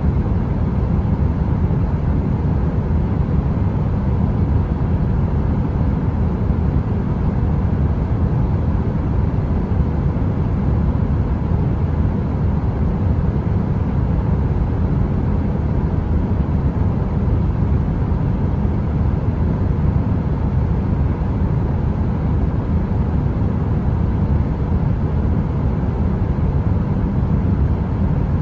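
Steady heater-style brown noise: an even, deep rumble heaviest in the low end, with a faint steady hum and no crackling.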